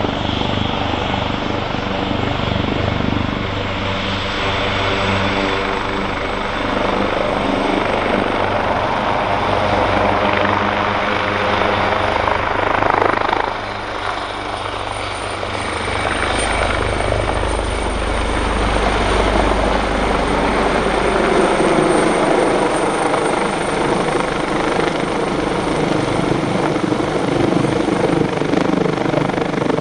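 Leonardo AW139 helicopter running, its two Pratt & Whitney Canada PT6C turboshaft engines and five-bladed main rotor heard together, with a high turbine whine that edges up in pitch about a third of the way in. About halfway the sound dips briefly, then a deeper rotor rumble comes up.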